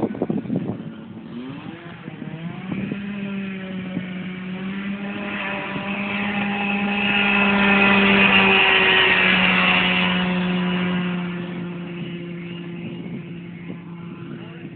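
Two-stroke twin-cylinder Cuyuna 440 engine of a half-scale Malibu Grand Prix race kart running at a steady pitch, growing louder to a peak about eight seconds in and then fading away.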